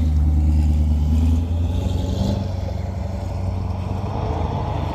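A car engine running with a deep, steady note, easing off a little about a second and a half in.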